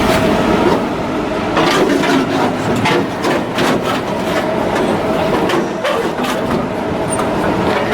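Loud, steady machinery noise with a held hum and many irregular knocks and clanks.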